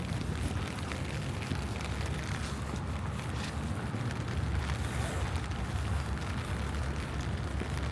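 Rainy city street ambience: a steady low rumble of traffic and wind on the microphone under an even wash of noise.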